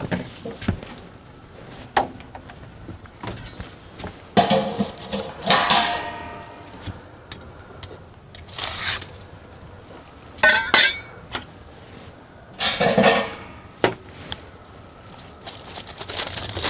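Metal clinking and scraping in separate bursts, a few ringing briefly: steel rib hooks being handled and hung on the wire cooking basket of a Char-Broil oil-less turkey fryer.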